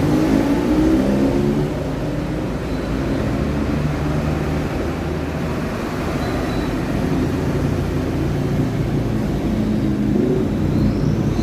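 A steady low mechanical rumble with a faint hum that wavers in pitch.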